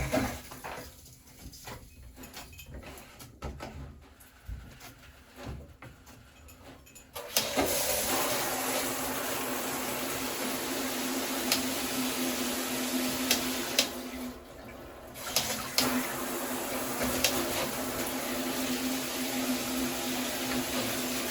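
A few faint clicks and knocks, then about seven seconds in the water is turned on and sprays steadily from a newly fitted Moen shower head as it is tested for leaks. The spray drops away for about a second and a half about halfway through, then comes back.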